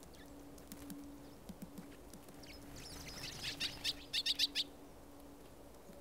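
A small bird calling at the feeder: a run of sharp, high chirps that come faster and louder, then stop about a second before the end. A few soft low knocks come before it.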